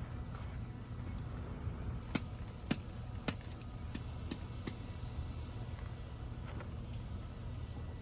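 Six sharp clinks of hard objects knocking together, glass or metal, spread over about three seconds in the middle, over a steady low hum.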